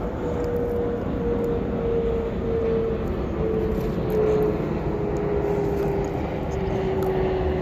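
Steady engine noise, with one tone sliding slowly down in pitch.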